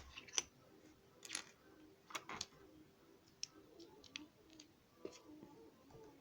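Lego bricks being handled: scattered small plastic clicks and taps at irregular intervals, a few louder ones in the first half.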